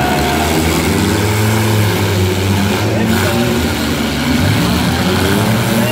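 Several demolition derby cars' engines running and revving together as a loud, steady drone whose pitch rises and falls.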